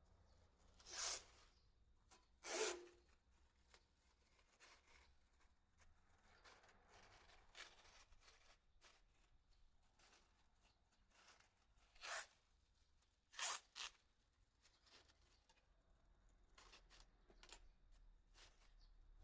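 Masking tape pulled off the roll in short ripping strips, five in all: two in the first three seconds and three more about two-thirds of the way through, the last two close together. Faint rubbing and handling of the tape and masking between.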